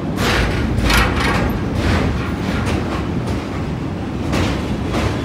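Indian Railways passenger train rolling across a steel truss bridge, heard through an open coach window: a steady low rumble of wheels on rail with louder clatters every second or so, heaviest in the first two seconds and again about four seconds in.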